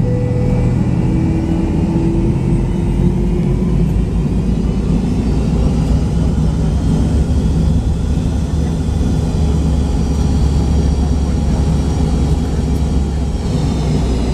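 McDonnell Douglas MD-83's tail-mounted Pratt & Whitney JT8D engines heard from inside the rear cabin: a loud, steady rumble with a few faint tones that drift slowly in pitch.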